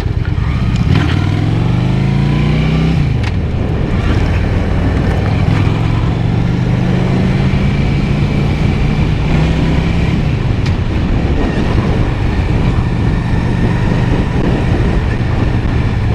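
Honda Shadow 750 V-twin motorcycle engine under way. It accelerates with its pitch rising for about two seconds, drops about three seconds in, then holds a steady cruise before easing off again. Heavy wind noise buffets the helmet microphone throughout.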